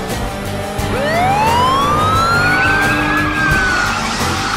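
Cartoon vehicle sound effect: one long whine that rises in pitch for about two seconds, then eases down, over background music.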